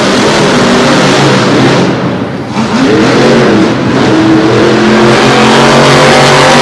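Monster truck engines at full throttle during a race, loud and dense; the level drops briefly about two seconds in, then the revs rise and fall again and hold steady near the end.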